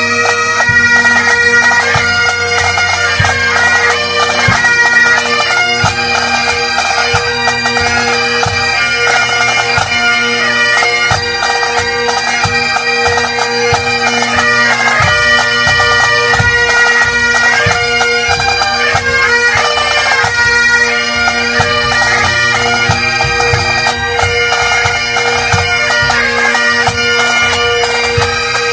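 A band of Great Highland bagpipes playing a tune, the chanter melody moving over the pipes' steady, unbroken drones.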